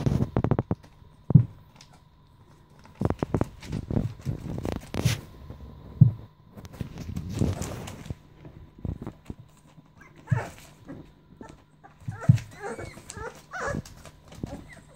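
American Staffordshire terrier puppies scuffling, with repeated knocks and thumps, and short high whimpering squeals in the second half.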